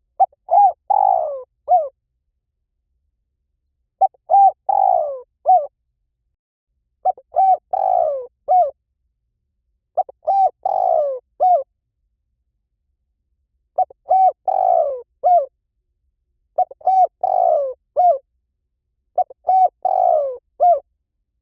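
Spotted dove cooing: a short phrase of four or five coos, repeated about every three seconds, seven times, with dead silence between phrases. It is a dove lure call used to decoy wild doves in.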